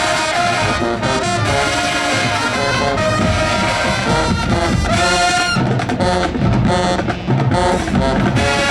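High school marching band playing, full brass section over drums: held brass chords, then short punched notes from about five and a half seconds in.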